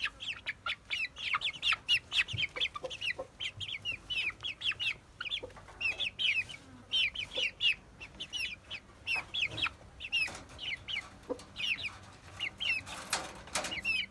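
Parrot Beak Aseel chickens calling, many birds at once: a dense run of short, high clucks and peeps that overlap.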